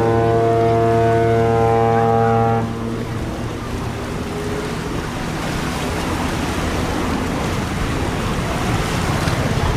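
Ship's horn sounding one long steady blast that cuts off about two and a half seconds in, followed by a steady rushing noise.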